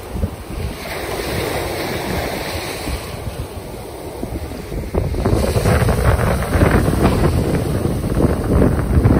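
Ocean surf washing ashore, with wind buffeting the microphone in heavy low rumbles. It swells louder about halfway through.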